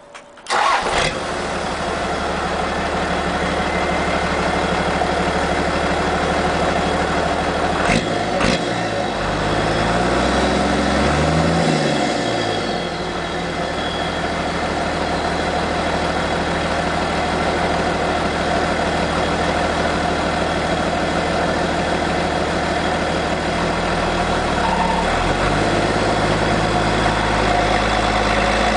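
Isuzu 6BG1-T turbocharged inline-six diesel in a GMC W5 truck, breathing through a full-flow 4-inch exhaust straight off the turbo, starting up about half a second in and settling into a steady idle. About ten seconds in it is revved once, rising and falling back to idle.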